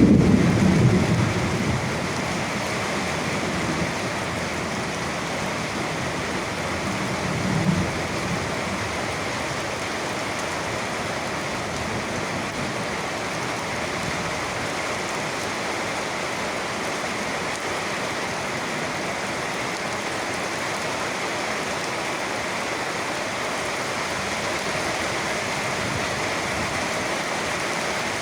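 Steady rain falling, with the tail of a low thunder rumble dying away in the first couple of seconds and a brief faint rumble about eight seconds in.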